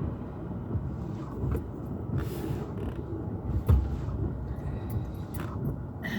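Steady low rumble of a vehicle driving, with a few short knocks, the loudest about three and a half seconds in.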